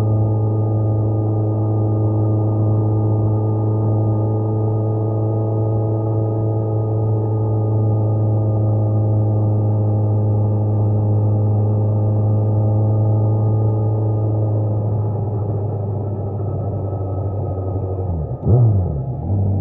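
Kawasaki Z900's inline-four engine running at a steady speed, a constant even drone. Near the end the pitch drops and swings back up in a quick change of revs, such as a gear change.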